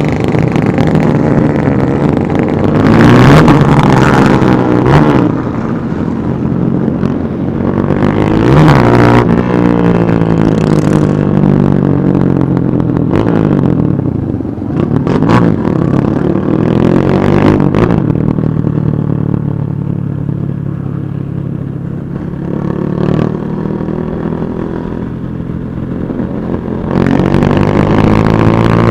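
A crowd of motorcycles riding together, engines running with repeated revs that rise and fall as bikes pass close by.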